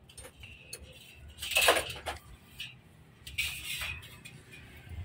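Metal tools and parts clinking and clattering during assembly work on a homemade table saw, with two louder clatters about one and a half and three and a half seconds in.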